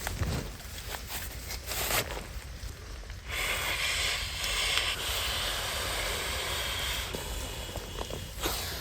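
Steady hiss of rain falling, growing louder and more even a few seconds in, with a few knocks and rustles before that.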